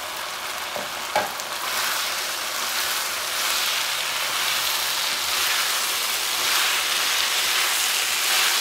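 Fried chickpeas sizzling steadily in a hot pan of sauce as they are added and stirred in. A couple of light knocks about a second in, then the sizzling grows louder and holds steady.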